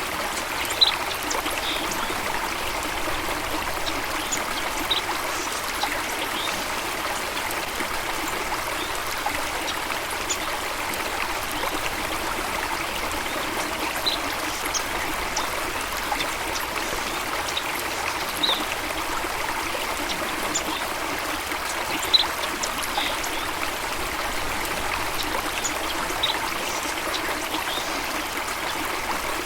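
Running stream trickling steadily, with a few brief, high-pitched sounds scattered over it.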